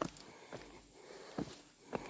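A few faint, scattered footsteps over a quiet background.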